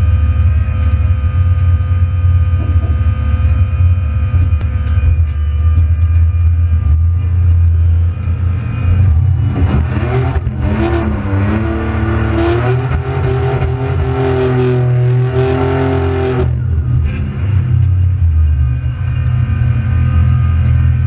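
Supercharged V6 engine of a Holden Gemini hillclimb car idling, heard from inside the cabin. Partway through, the revs come up and are held, wavering, for several seconds before dropping back to idle.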